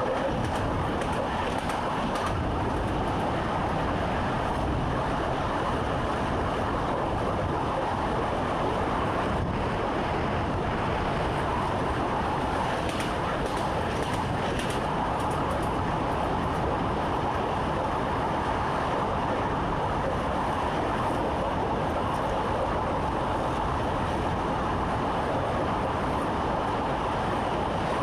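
Electric commuter train's steady running noise heard from inside the driver's cab, wheels on rails, with a few faint clicks a little before halfway.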